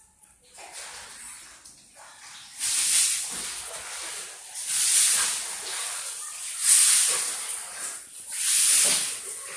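Cat hissing: four loud hisses about two seconds apart, starting a couple of seconds in, after fainter rustling noise.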